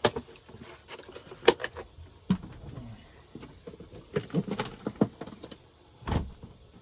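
Scattered light clicks and knocks of a utensil and dishes being handled, with a duller thump about six seconds in.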